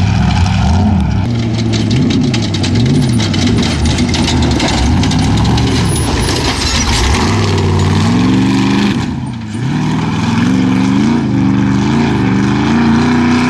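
Off-road race truck engine running loud, its pitch rising and falling over and over as the throttle is opened and closed, with a brief drop in level about nine seconds in.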